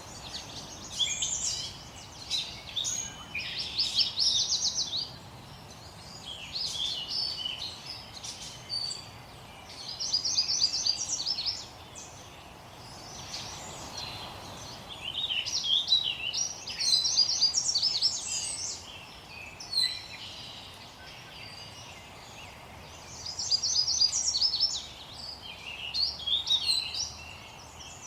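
Songbirds singing in bursts of a few seconds each, made of quick runs of repeated high notes, over a faint steady background hiss.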